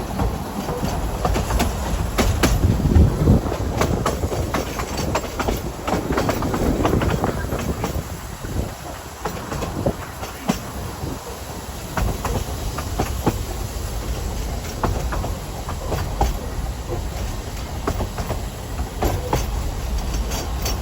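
Ffestiniog Railway narrow-gauge train running, with a steady low rumble and irregular clicks and knocks of the wheels over the track.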